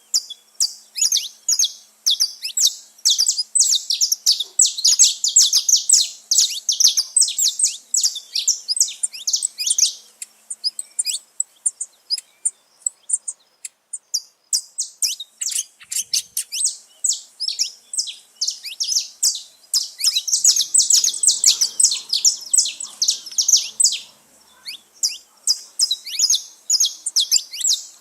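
Saffron finches singing: long runs of rapid, high chirps that overlap densely, with a short lull near the middle before the song picks up again.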